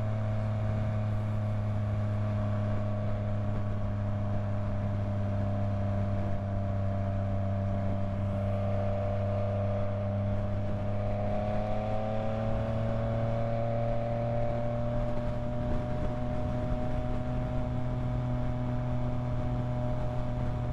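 Yamaha MT-09 motorcycle's three-cylinder engine running steadily while cruising, its pitch rising slightly about halfway through and then holding.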